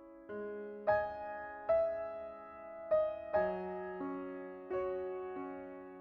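Background piano music: a slow, gentle run of struck notes and chords, each ringing and fading before the next, about one or two a second.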